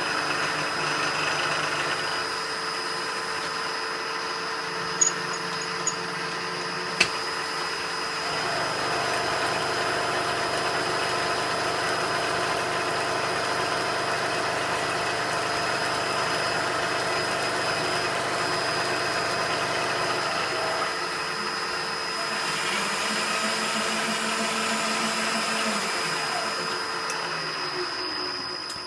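Dumore tool post grinder running with a steady high whine together with a metal lathe turning the work, grinding a fine finish on the part, with a few sharp clicks about five to seven seconds in. Near the end the machines wind down, their pitch sliding lower.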